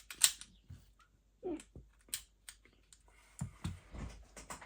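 Irregular clicks and knocks of an airsoft pistol and its small parts being handled on a workbench. There is one sharp click near the start and a quicker run of clicks near the end.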